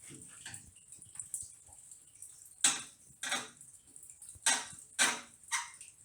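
Coolant dripping from a tractor's radiator drain into a container: about five separate drops, unevenly spaced, in the second half.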